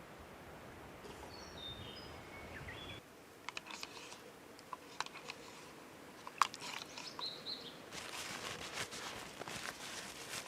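A bird calls with a few falling whistled notes over a low, steady wind noise. After about three seconds this gives way to scattered sharp clicks, then to close, continuous rustling and clicking of things being handled.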